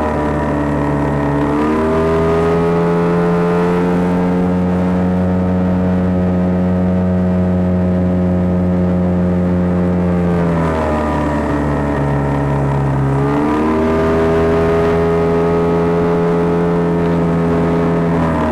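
A boat's motor running steadily under way. It is throttled up about a second and a half in, eased back about ten seconds in, opened up again a few seconds later, and eased off near the end.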